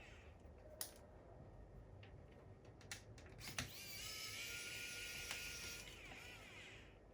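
A small electric screwdriver spins up with a rising whine, runs steadily for about two seconds and winds down, backing out laptop screws. A few sharp clicks of the tool against the laptop come before it.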